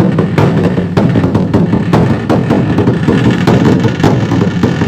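Bedug, the large Indonesian mosque drum, beaten in a fast, steady rhythm of strikes coming several times a second.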